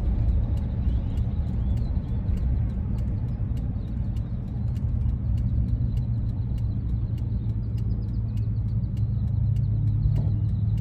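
Ford E-350 van on the move, heard from inside the cab: a steady low rumble of engine and road noise, with a low drone that grows stronger near the end.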